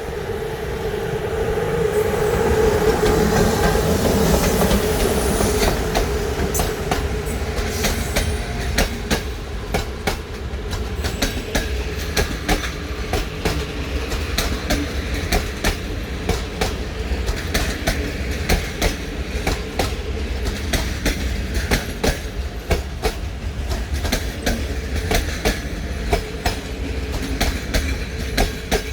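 Passenger train hauled by a Class 060-EA electric locomotive pulling out and rolling past. A steady hum is strongest in the first few seconds and then fades. After that, the carriages' wheels click rhythmically over the rail joints as they go by.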